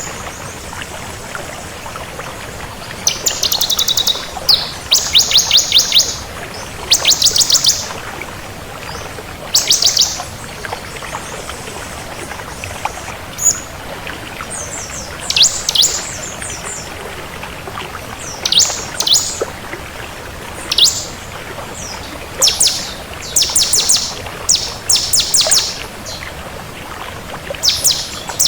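Ciblek kristal (bar-winged prinia) singing: short, rapid, high trills of about a second each, repeated every few seconds, over a steady background hiss.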